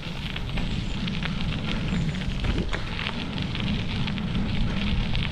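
Bicycle rolling along a rough dirt path: the tyres give a stream of irregular crackling clicks over grit and debris, over a steady low rumble.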